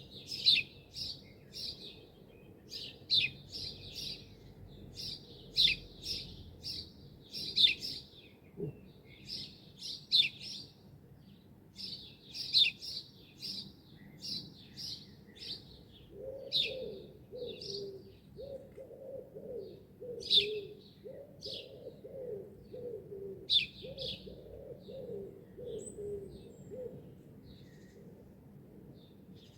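Small birds chirping in quick short notes, thinning out toward the end. From about halfway through, a pigeon coos low in a rhythmic series of about a dozen notes.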